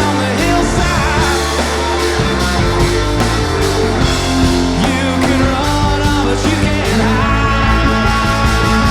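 Live rock band playing with a lead singer, drums and bass pushing a steady beat under the vocals.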